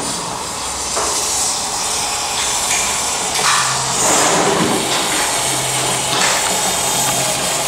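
Urethane foam gun spraying expanding foam into gaps in a wall: a steady hiss, with a few short knocks and clicks.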